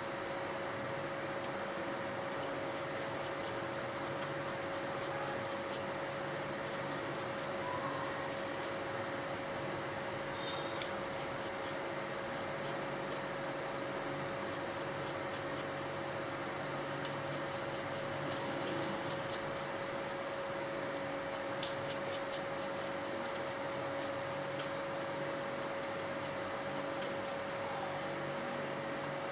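Steady background hiss with a constant hum, over which come many faint light clicks and ticks, as of small parts being handled.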